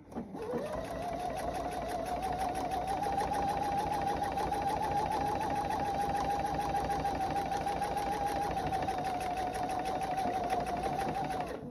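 Electric sewing machine stitching a seam, speeding up over the first second, running steadily, then stopping just before the end.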